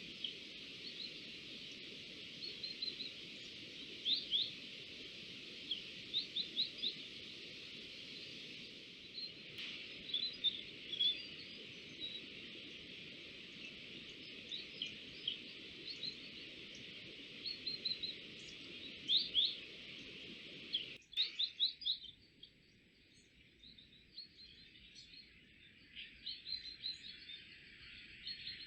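Small birds chirping, with short, high calls repeated again and again over a steady background hiss. The hiss changes abruptly about 21 seconds in.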